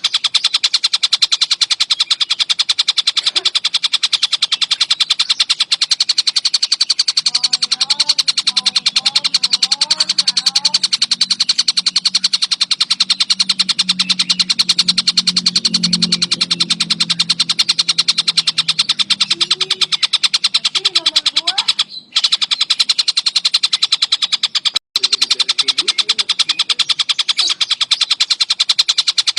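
Songbird master recording of rapid-fire rolling song: a steady, fast, high-pitched trill of closely repeated notes, with two brief breaks about 22 and 25 seconds in.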